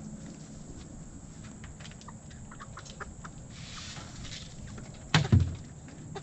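Chickens clucking quietly while they are being fed, as a scatter of short calls. One loud thump comes a little after five seconds.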